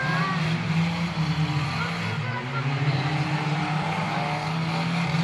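Engines of several stock cars racing together: a steady drone with revs rising and falling as the cars pass.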